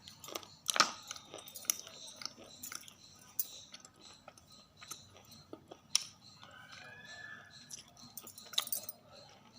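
Chewing and biting into something crunchy: scattered crisp crunches and crackles, with the sharpest about a second in, at about six seconds and again near the end.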